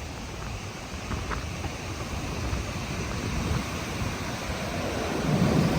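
Ocean surf: heavy waves washing and rushing up the beach at high tide. The wash grows louder near the end, with wind buffeting the microphone.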